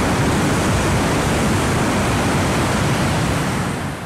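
Shinkansen train passing close by at speed through the station: a loud, steady rush of wheel and air noise that begins to die away near the end as the train moves off.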